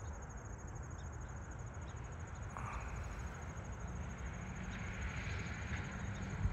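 Low, steady rumble of a train pulling away along the tracks, with insects trilling steadily over it.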